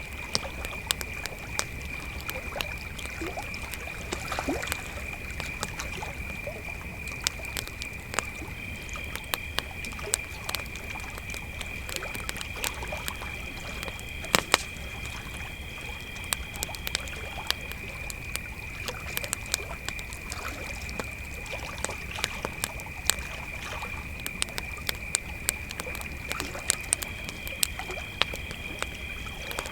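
Crickets trilling steadily on one high note, with a second, higher-pitched cricket joining for several seconds twice, over a wood campfire crackling with frequent sharp pops.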